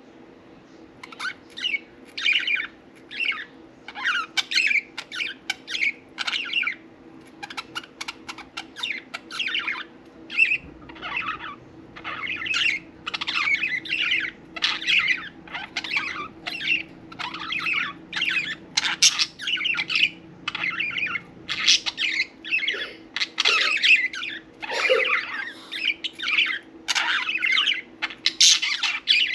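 Pet budgerigars chirping and chattering in a quick, unbroken run of short, high calls.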